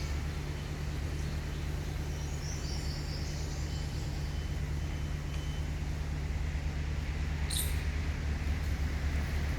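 A steady low rumble with a few short bird chirps: a pair about three seconds in and a single sharp one near seven and a half seconds.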